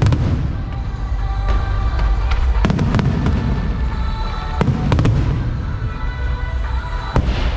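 Aerial fireworks bursting: a handful of sharp bangs, in clusters about every two seconds, over a continuous low rumble, with music playing underneath.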